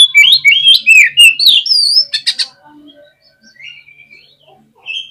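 Oriental magpie-robin (kacer) singing: a loud burst of quick whistled notes sliding up and down, broken by a few harsh rattling notes about two seconds in. It then drops to softer, scattered phrases, with a short louder note near the end.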